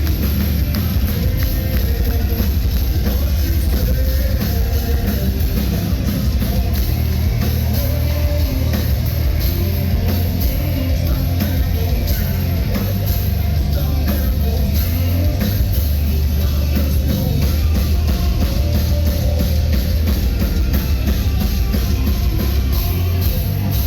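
Heavy metal band playing live, loud and unbroken, with drum kit, distorted guitars and bass, and a voice singing over them.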